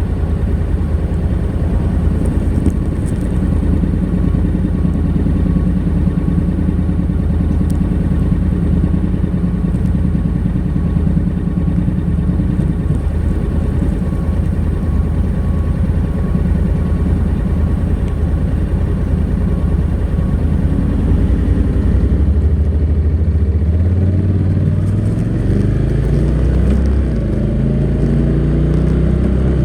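Honda NC700X DCT's 670 cc parallel-twin on its stock exhaust, running at a steady engine speed while riding. About three-quarters of the way in, the revs climb repeatedly and drop back at each gear change as the bike accelerates.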